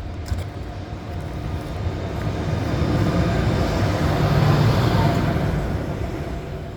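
A train passing through a station: the rumble of the train and its wheels on the rails swells to its loudest about four to five seconds in, then begins to fade.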